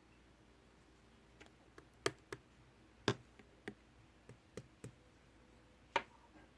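Slime being handled, giving about eight sharp, irregular clicks and pops. The loudest come about two and three seconds in and near the end.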